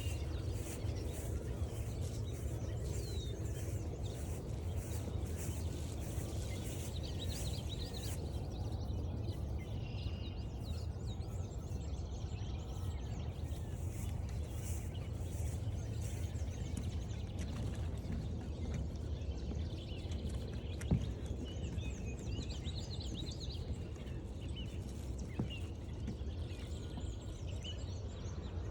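Several songbirds chirping and singing in short phrases, heard over a steady low rumble, with a single sharp tap about 21 seconds in.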